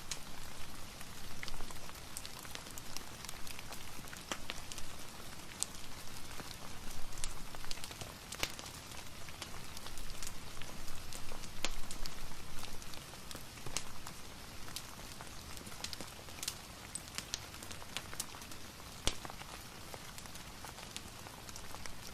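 Steady rain pattering, with scattered sharp clicks and pops from a crackling wood fire mixed in.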